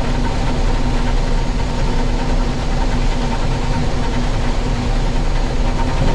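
International Harvester 1440 combine running steadily while harvesting soybeans: an even engine drone mixed with the machine's threshing noise.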